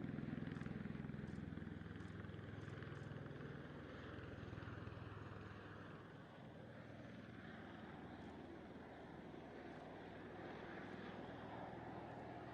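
Tiltrotor aircraft's engines and rotors running as a steady drone, with a low hum that is strongest for the first few seconds and then eases.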